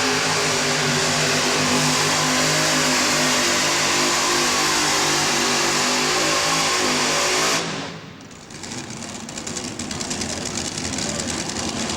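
Modified tractor-pulling engine running loud and steady. About two-thirds of the way through it cuts off suddenly, leaving a much quieter background.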